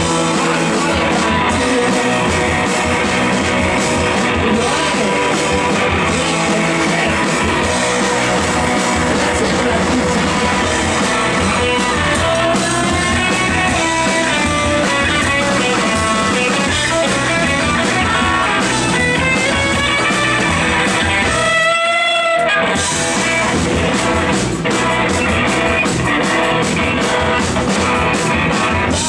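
Rock band playing live: electric guitars, a baritone guitar and a drum kit, with a bending, wavering guitar line through the middle. The band stops briefly about three-quarters of the way through, then comes back in.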